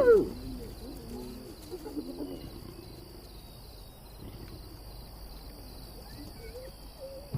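Spotted hyenas calling at a kill: a loud rising-and-falling call right at the start, then fainter short rising-and-falling yelps over the next two seconds and again near the end. Crickets trill steadily underneath.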